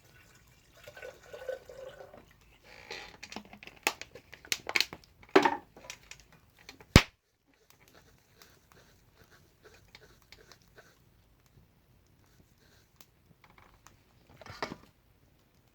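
Small things being handled: scattered clicks, knocks and rustling, with one sharp click about seven seconds in and a short rustle near the end.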